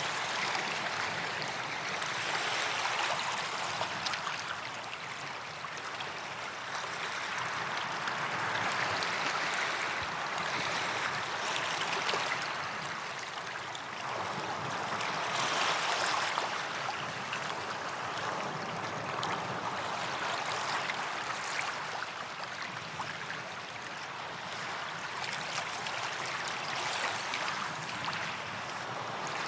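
Waves washing onto a white-sand beach, a steady wash that swells and eases every few seconds.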